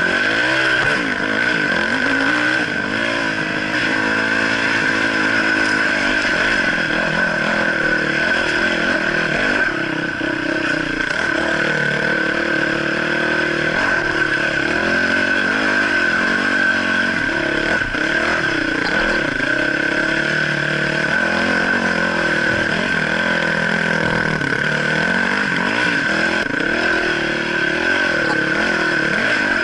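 Dirt bike engine running while ridden over a rough trail, its pitch rising and falling again and again, with a steady high whine running underneath.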